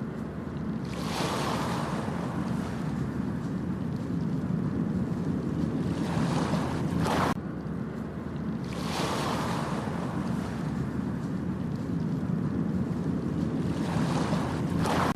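Ocean waves breaking and washing up a beach, swelling in a few surges of hiss over a steady low rumble of surf.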